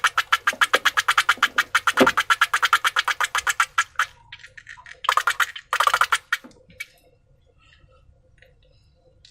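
Rapid, even crackling clicks, about ten a second, from slime being worked by hand with a balloon. The clicking stops about four seconds in and returns in two short bursts around five and six seconds in, then only faint ticks remain.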